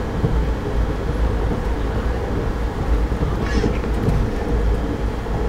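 Steady rumble of a moving passenger train, heard from inside the carriage, with a brief hiss about three and a half seconds in.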